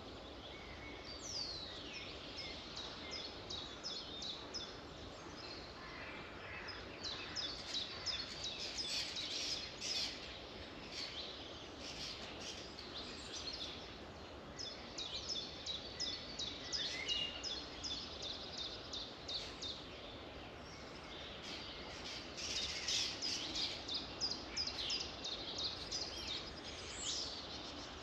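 Songbirds singing and chirping in quick runs of high notes and short falling sweeps, coming in several busy bursts over a steady background noise.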